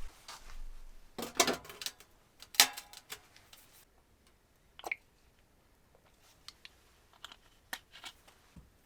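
Rustling and crackling for a couple of seconds, followed by scattered sharp clicks and light knocks, as things are handled.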